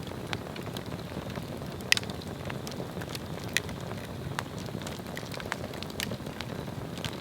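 Swedish torch log fire burning with a steady low rush of flame and scattered sharp crackles and pops of burning wood, the loudest pop about two seconds in.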